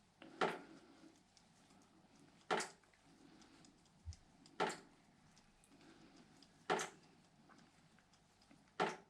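Sharp taps or knocks repeating evenly, about one every two seconds, five in all.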